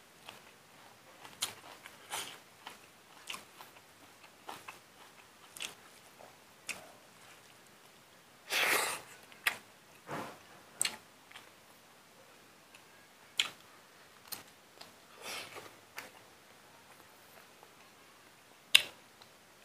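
A man eating rice, pork and greens by hand: chewing with scattered sharp smacks and clicks, and one louder, longer mouth or hand sound about nine seconds in.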